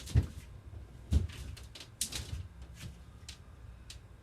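Chainsaw parts and tools being handled on a workbench while the anti-vibration rubbers are being swapped: two heavy knocks near the start and about a second in, then lighter clicks and taps.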